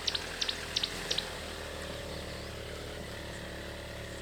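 Vehicle engine idling steadily, with a run of quick high chirps from a bird in the first second or so.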